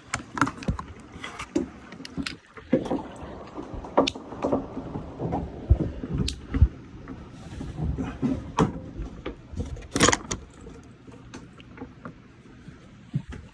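Irregular knocks and clunks, a dozen or so sharp hits spread unevenly, with a noisy wash underneath.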